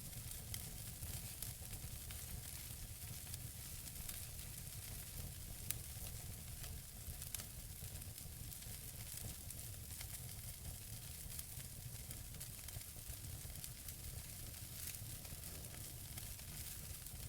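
Wood fire burning in a fireplace: a steady soft hiss and low rumble with scattered small crackles and pops from the burning logs, a couple of sharper pops near the middle.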